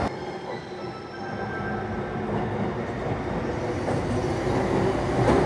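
Commuter electric train running into a station platform, its running noise growing louder, with faint steady high tones over it.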